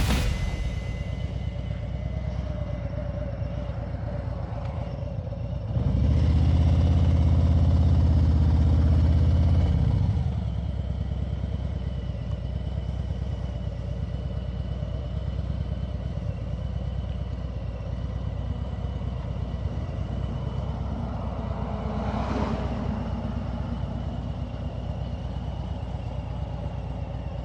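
Motorcycle riding along a road, its engine running steadily under road and wind noise. The engine gets clearly louder for about four seconds, starting about six seconds in.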